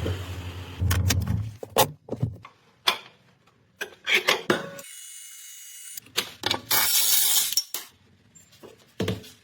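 Mechanic's hand tools at work on car suspension: a string of sharp metallic clicks and knocks at irregular intervals, broken by abrupt cuts.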